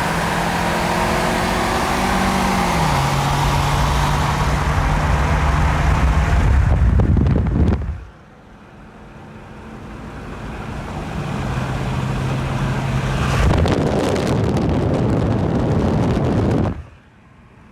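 Car engine running under load with road and wind noise; its pitch steps down once, as at a gear change, a few seconds in. The sound drops away sharply about halfway through, builds back up, and cuts off suddenly near the end.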